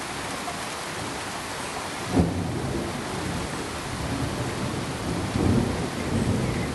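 Steady, even pink-noise hiss like rain. A sudden low thump comes about two seconds in, and low rumbles like distant thunder swell near the end.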